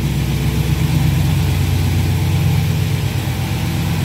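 1955 Studebaker pickup truck engine idling steadily, still cold, shortly after its first start in two weeks.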